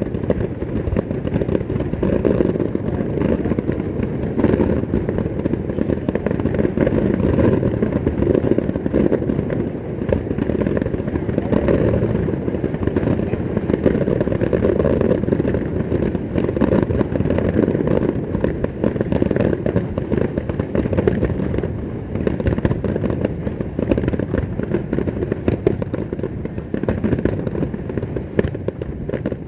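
Large fireworks display going off in a dense, continuous barrage: overlapping deep booms with many sharp cracks among them, without a break.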